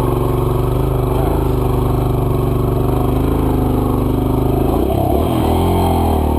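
Four-stroke dirt bike engine idling steadily, its pitch dipping and wavering briefly about five seconds in.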